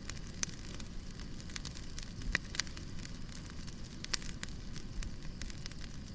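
Wood fire in a fireplace crackling: irregular sharp pops and snaps, several a second, over a steady low rumble of burning.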